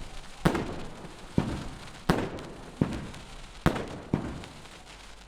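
Fireworks exploding: six sharp bangs spaced about half a second to a second apart, each trailing off in a rumbling echo.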